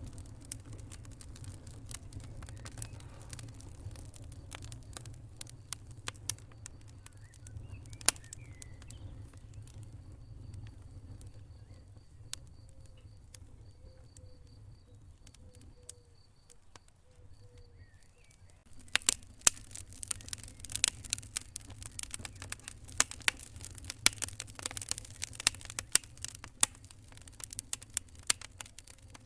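Wood fire in a fireplace crackling and popping over a low, steady rumble of the flames. The pops are scattered at first, thin out in a quieter spell around the middle, then come thick and loud from about two-thirds of the way through.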